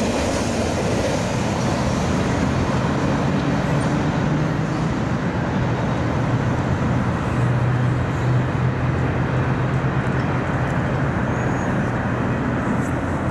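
The rear autorack cars of a freight train rolling past on the rails and fading into the distance, over steady road traffic noise.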